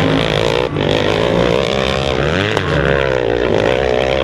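Motocross dirt bike engines revving, their pitch rising and falling again and again as the throttle is worked, with a brief drop in the sound under a second in.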